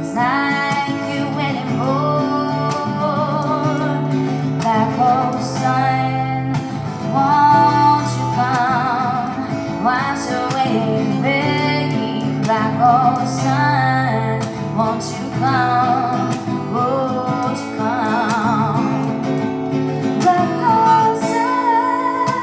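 Live acoustic guitar strummed as accompaniment while a woman sings with vibrato.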